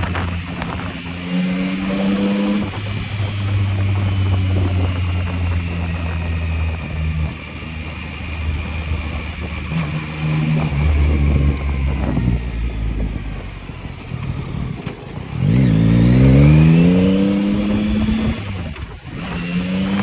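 Yamaha MT-09's inline three-cylinder engine heard from the bike while riding, holding steady revs that step up and down with throttle and gear changes. About fifteen seconds in it revs hard, its pitch climbing steeply, then drops off abruptly near the end before pulling again.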